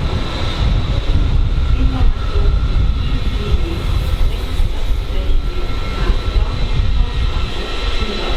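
Train running at a station platform: a loud, steady low rumble with faint steady tones above it.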